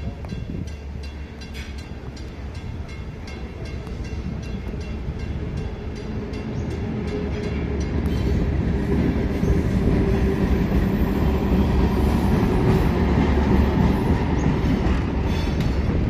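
The Cockle Train 844 arriving: a low rail rumble that builds steadily and grows clearly louder from about eight seconds in as the train's carriages draw level.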